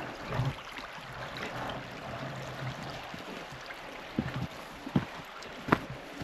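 Steady rush of flowing river water, with a few short sharp knocks in the second half.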